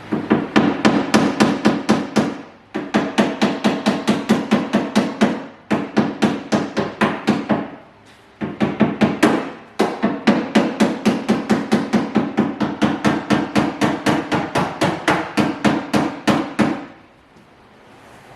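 Body hammer tapping rapidly on the sheet steel of a car's quarter-panel wheel-well lip, about five blows a second in several runs with short pauses, working out the waves left after a slide-hammer dent pull.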